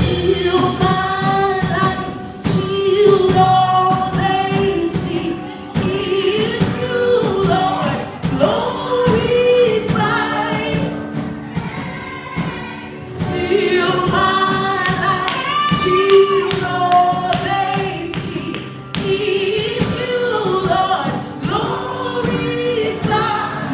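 Gospel praise singing with a band: voices holding and sliding between long sung notes over steady instrumental accompaniment.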